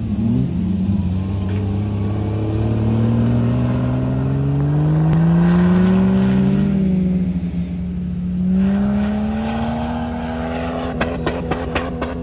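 An off-road 4x4's engine revving under load, its pitch climbing slowly for several seconds, dropping back, then rising again and holding steady. A quick series of sharp clicks comes in near the end.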